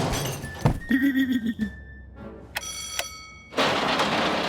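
Cartoon soundtrack of sound effects over music: a thin held tone, a short ringing tone about three seconds in, then a loud burst of noise lasting over a second.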